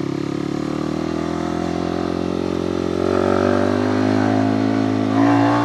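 Motorcycle engine running under load on a steep climb, steady at first, its pitch rising slowly in the second half and dropping near the end.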